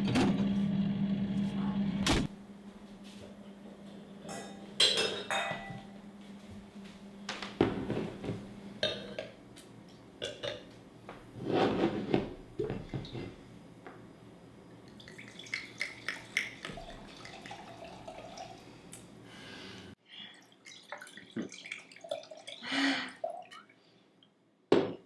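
Wine bottle and glasses being handled: a series of glassy knocks and clinks, with short glugging stretches of wine being poured.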